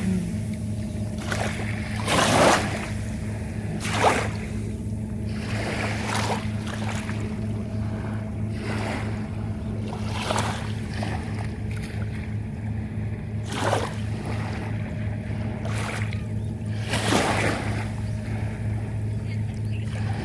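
A boat's engine running with a steady low hum, with water splashing and rushing against the hull at irregular intervals every second or two.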